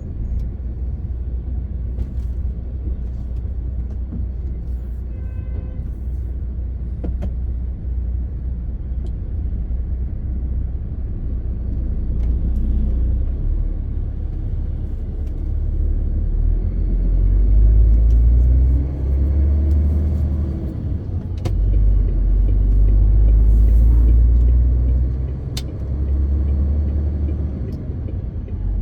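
Straight-six diesel engine of a MAN TGX 18.520 truck heard from inside the cab while driving: a steady deep rumble with road noise. It grows louder in the second half, rising and falling in pitch about twenty seconds in, with occasional light clicks.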